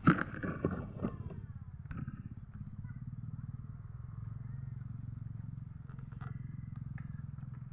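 Steady low hum of a small engine running, with a cluster of loud knocks and rustling in the first second and a few faint clicks later on.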